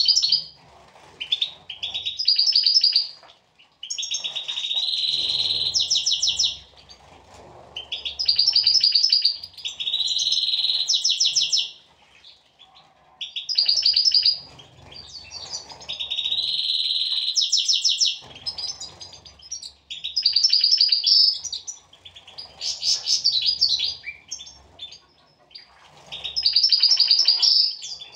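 European goldfinch singing: a run of twittering phrases made of fast rolling trills and buzzy notes, a new phrase every two to three seconds with short pauses between.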